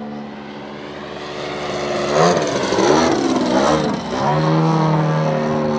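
Giant scale RC airplane's propeller engine in flight, running steadily, then its pitch swinging up and down as it grows loudest for a couple of seconds, before settling back to a steady note.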